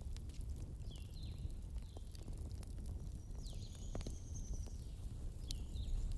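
Wood fire in a fireplace crackling, with sharp pops over a low steady rumble. Short high whistles come and go several times, one held longer near the middle.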